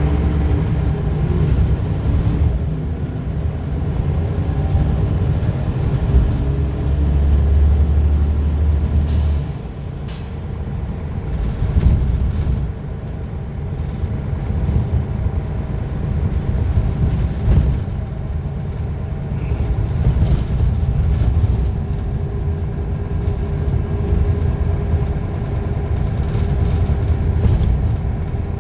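Scania L94UB bus's five-cylinder diesel engine running, with its ZF automatic gearbox. A steady low drone from about six seconds in ends in a short, sharp hiss of air from the brakes.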